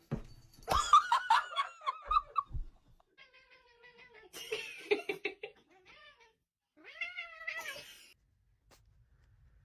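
A cat meowing and yowling in a string of calls, ending with one long call that rises and then falls in pitch.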